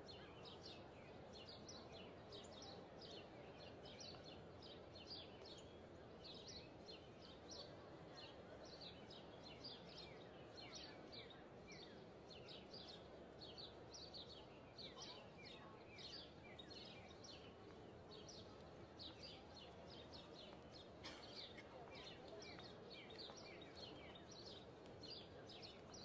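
Faint, steady birdsong: many small birds chirping in quick, short, falling notes, with a constant low hiss of outdoor ambience underneath.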